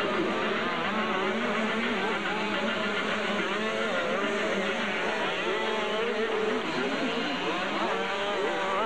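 Several motocross motorcycle engines racing, their pitches rising and falling as the riders rev and shift.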